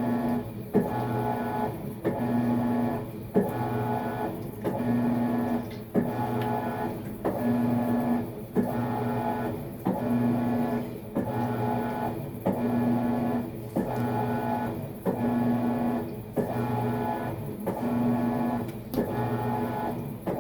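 Maytag MVWX655DW1 top-load washing machine agitating during a tub clean cycle. The drive motor hums in strokes that reverse about once a second, with a click at each change of direction.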